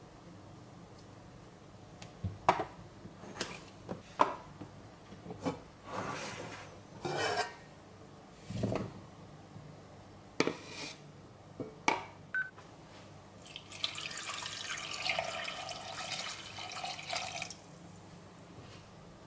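Kitchen food-prep sounds: dishes, utensils and containers knocking and clinking, with a few short scrapes, then a steady rushing sound for about four seconds near the end.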